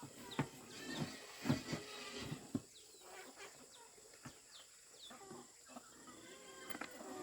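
Birds chirping in short falling peeps, with several sharp knocks during the first few seconds.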